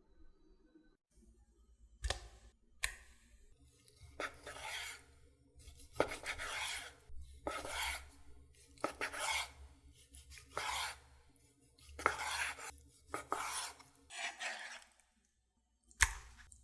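A knife cutting food on a cutting board: about a dozen separate rasping strokes, several starting with a sharp knock of the blade on the board.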